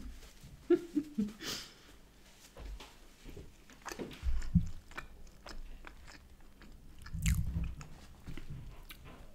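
A person chewing a mouthful of smoked salmon and cream cheese bagel close to the microphone: irregular mouth clicks and chewing, with a few louder low thumps, the loudest about seven seconds in.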